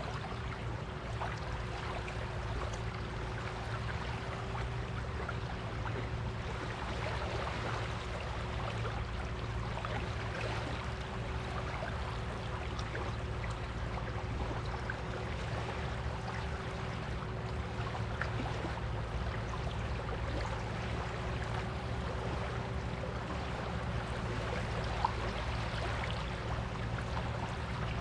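Small waves washing and fizzing on a beach, an even hiss full of fine crackles, with a faint steady hum underneath.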